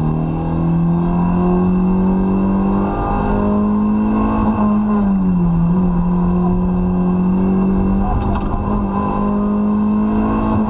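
Rally car engine heard from inside the cabin at stage speed, pulling hard in gear with its pitch slowly rising. About four and a half seconds in it eases off briefly, then pulls again and holds high, over a steady rush of tyre and road noise.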